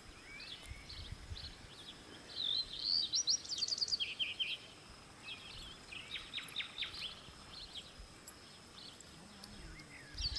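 Wild birds calling in short chirping phrases, busiest a few seconds in, over a steady outdoor background hiss with a few low rumbles.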